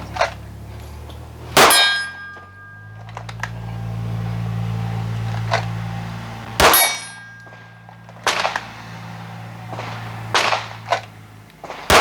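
Single pistol shots a few seconds apart, each drawn from the holster, with a metallic ring after the louder ones as bullets strike a steel target. The two loudest come about a second and a half in and near seven seconds, with fainter cracks later. A low steady hum runs under the middle.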